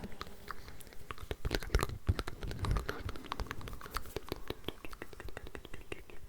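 Layered ASMR mouth sounds: many overlapping wet clicks and smacks of the lips and tongue, a dense, irregular patter of small clicks.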